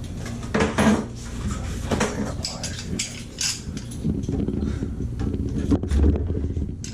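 Metal tools and faucet valve parts clinking, knocking and scraping in irregular handling, during work on a Moen tub and shower valve cartridge.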